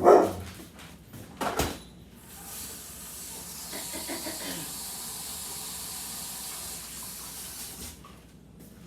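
Kitchen tap running water into the sink in a steady hiss for about five and a half seconds, then shut off. A short loud burst at the very start and a sharp knock come before it.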